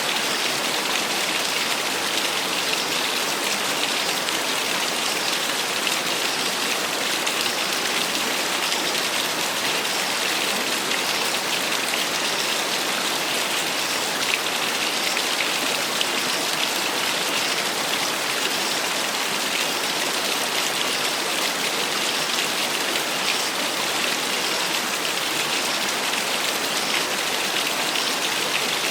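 Small waterfall splashing steadily: an even, hissy rush of falling water that never changes.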